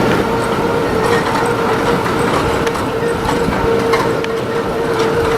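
Wildwood boardwalk tram car running along the boardwalk: a steady whine from its drive, with scattered clicks and clatters from the wheels.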